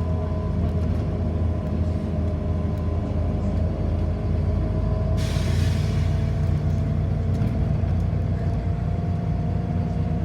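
City bus heard from inside the cabin while driving: a steady low hum with a thin whine that rises slowly in pitch. About five seconds in comes a short hiss of released air, typical of the bus's air brakes.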